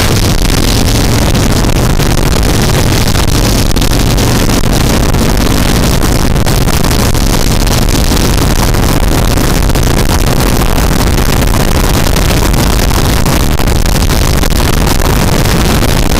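Heavy wind noise buffeting an action camera's microphone during a motorcycle ride, with the low, steady running of a Harley-Davidson Street Bob's V-twin engine underneath. The wind noise is loud and unbroken and drowns most of the engine.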